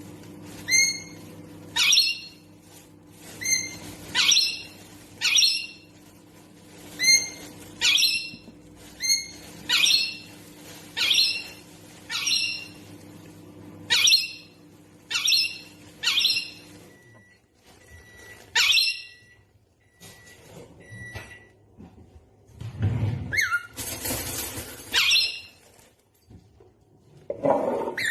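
Pet parrot giving short, loud squawking calls about once a second, over a steady low hum that stops about two-thirds of the way through. A few short high beeps follow, then a few more calls and a brief noisy rustle.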